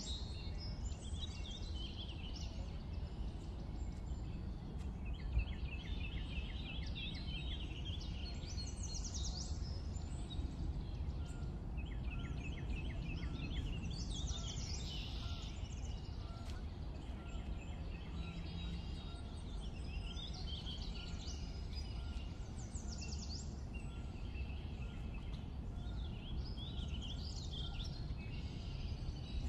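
Birds chirping and trilling again and again over a steady low background rumble.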